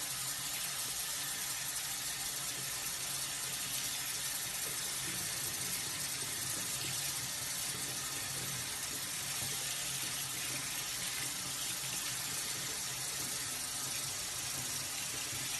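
Water running steadily from a tap, an even rushing without breaks.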